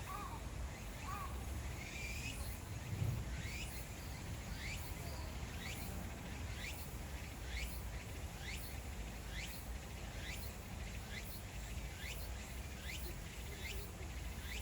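A bird repeating a short falling chirp about twice a second, over a steady low rumble, with a single low thump about three seconds in.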